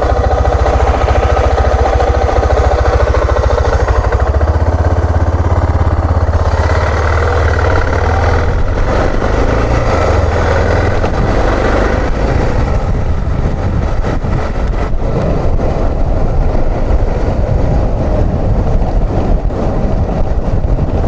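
Suzuki XF650 Freewind's single-cylinder engine running as the motorcycle is ridden, with wind noise on the microphone. The engine note changes about four seconds in and again about twelve seconds in.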